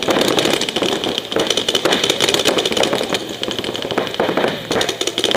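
Paintball markers firing in rapid strings, a fast rattle of many shots a second over a steady hiss.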